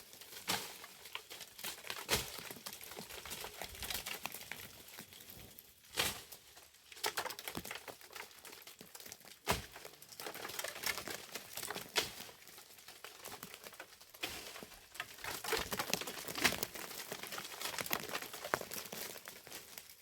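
Dry leaves and twigs crunching and crackling as they are handled or trodden on, with a sharper snap every few seconds.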